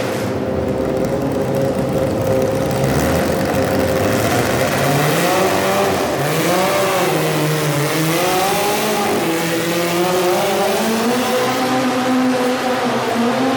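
Modified garden tractor pulling engine running loud. It holds a steady pitch at first, then its revs swing up and down several times, then settle and climb slowly near the end.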